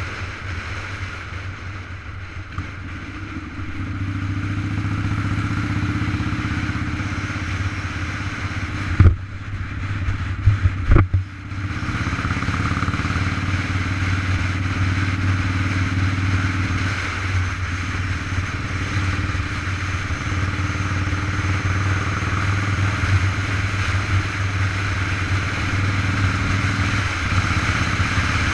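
Motorcycle riding along the road, heard from the rider's camera: a steady hum from the engine under a constant rush of wind and road noise. A few sharp knocks come around nine to eleven seconds in.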